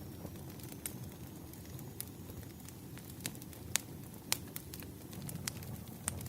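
Wood fire crackling: irregular sharp snaps and pops, two of them louder a little past the middle, over a low steady rumble.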